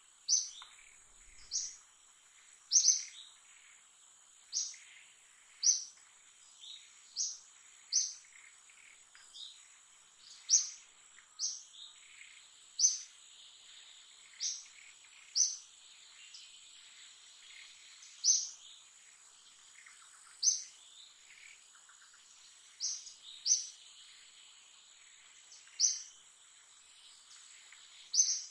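A small bird chirping, one short, sharp, high chirp every second or two at uneven intervals, over a steady high-pitched insect drone.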